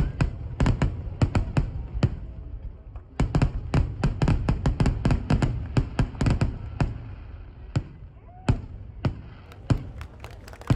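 Aerial fireworks going off in a rapid barrage of sharp bangs over a low rumble, densest in the middle and thinning out later on. A quick run of lighter crackles comes near the end.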